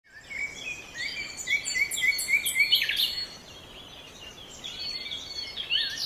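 Several birds singing: a quick run of repeated short chirps, about four a second, over other calls for the first three seconds, then quieter, with chirping picking up again near the end.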